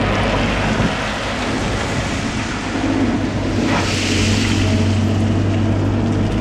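Heavy machinery's engine running steadily with a low hum, mixed with wind noise on the microphone; a rush of hiss swells briefly about four seconds in.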